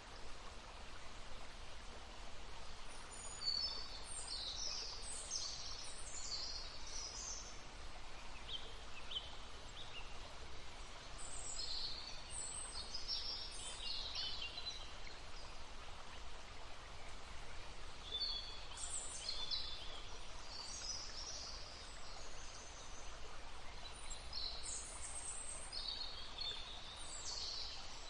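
Songbirds singing in short bursts of high chirps every few seconds over the steady rush of a babbling stream.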